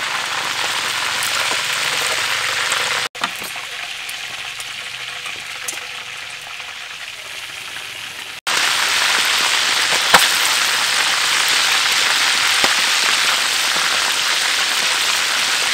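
Chicken legs deep-frying in hot oil in a steel wok: a steady, dense sizzle and crackle. It drops quieter for a few seconds after about three seconds in, then returns at full strength, with a single sharp pop or click about ten seconds in.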